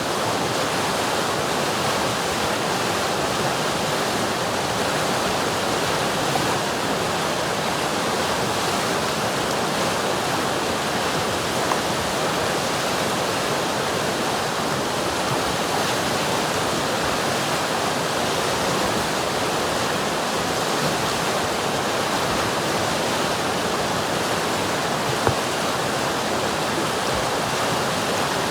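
A river's water rushing steadily, an even, unbroken flow.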